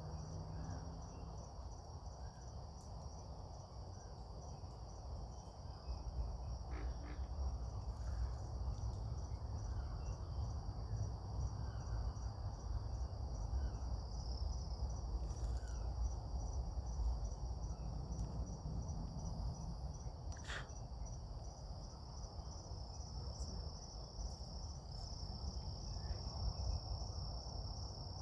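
Steady chorus of insects, a high, fast-pulsing trill that does not let up. Underneath it a low rumble swells from about six seconds in and eases off in the last third.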